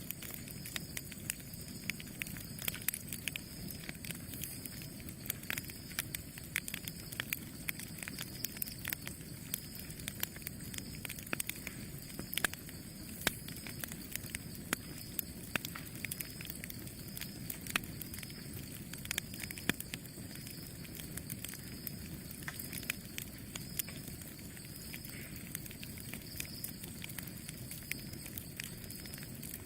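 Campfire burning, with a steady low rush of flames and frequent sharp crackles and pops from the burning wood at irregular intervals.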